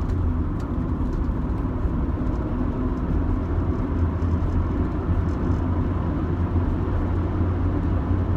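Steady drone of engine and tyre noise inside a 2005 Rover 25's cabin while it is driven along the road.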